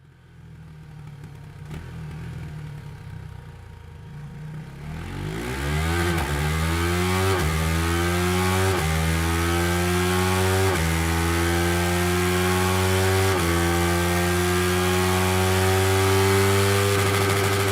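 KTM 390's single-cylinder engine running at low revs, then accelerating hard from about five seconds in. The revs climb and drop back four times as it shifts up through the gears, then hold steady in a high gear.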